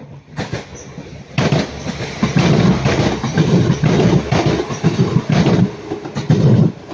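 A Northern Class 195 diesel multiple unit passing close at speed, its wheels clattering rhythmically over the rail joints. The train's noise comes in suddenly about a second and a half in and drops away just before the end.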